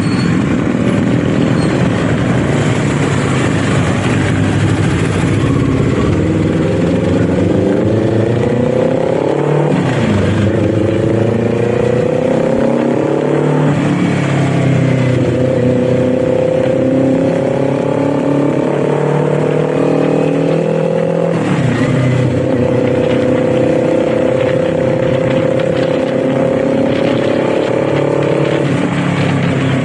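Kawasaki Z400's parallel-twin engine under way, pulling up through the gears: its pitch climbs and then drops sharply at each of four upshifts. Between the later shifts it holds a near-steady note, over wind and road noise.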